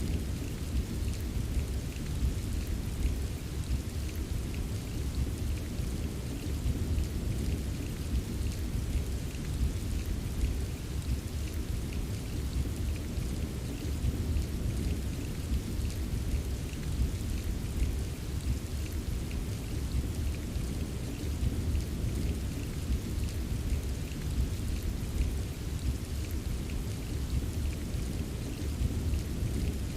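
Steady heavy rain: a dense patter of drops over a deep, continuous low rumble, unchanging throughout.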